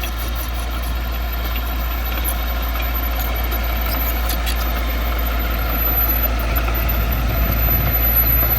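Heavy diesel engine of earthmoving machinery running steadily with a deep low rumble, swelling a little louder about seven seconds in.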